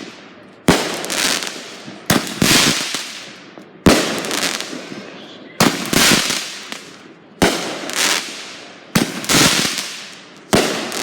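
Consumer fireworks going off in a regular series: seven sharp bangs, about one every second and a half, each followed by a crackling hiss that fades away.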